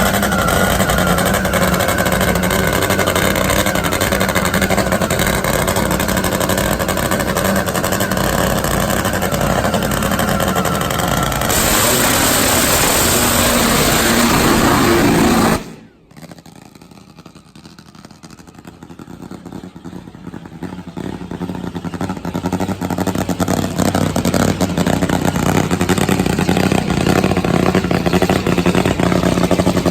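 Top Fuel nitromethane drag motorcycle engine running loud under power, with the rear tire smoking and spinning on the run. About halfway through the sound cuts off abruptly, then engine noise builds gradually back to full loudness.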